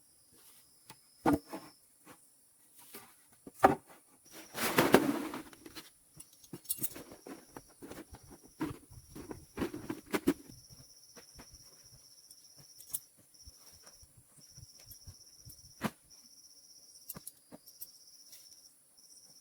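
Insects chirring in a steady high trill, one line of it broken into long pulses, over scattered knocks and rustles of handling. There is a louder rustling burst about five seconds in.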